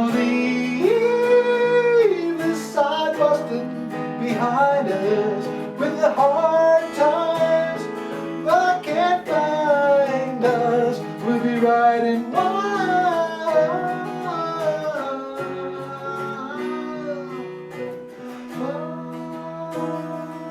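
Acoustic guitar music in a country style: strummed chords under a held, gliding melody line, with no sung words.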